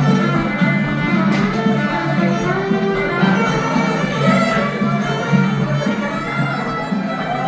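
Live acoustic folk music: an instrumental break between sung verses, with a fiddle carrying the melody over a steady low accompaniment.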